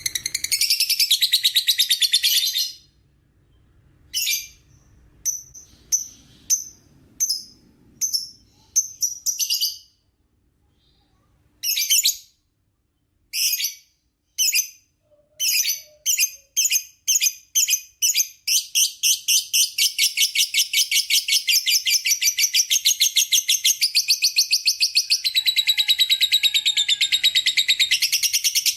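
Lovebird doing its 'ngekek', a shrill chattering trill. It opens with a short burst of rapid chatter, breaks into single sharp chirps about a second apart, and these speed up until, around two-thirds of the way through, they run together into a long, unbroken fast chatter.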